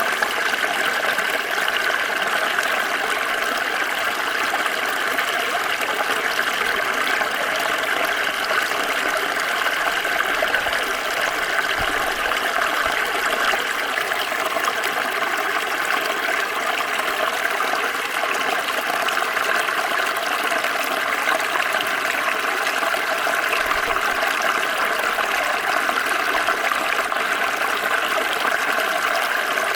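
Small stream flowing over stones, a steady babbling and splashing of water without a break.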